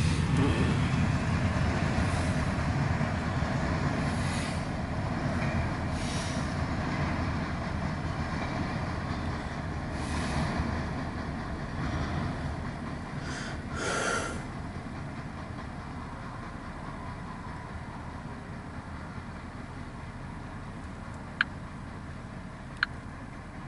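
CSX intermodal freight train rolling past, a steady low rumble heard from inside a vehicle cab that slowly fades, with a few brief swells along the way and two sharp clicks near the end.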